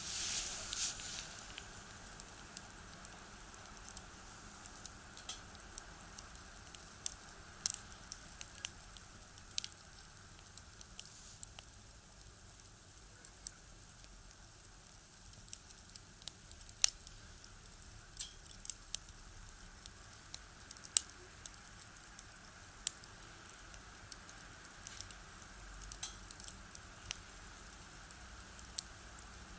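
Firewood crackling as it burns in a small box stove: irregular sharp pops and a few louder snaps over a faint steady hiss, with a brief louder rush of hiss in the first second or so.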